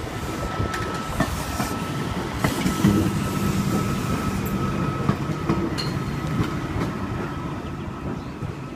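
Double-deck V-set intercity electric train rolling slowly past over the yard track, its wheels clacking over rail joints, with a steady high tone over the rumble. It fades as the train moves away near the end.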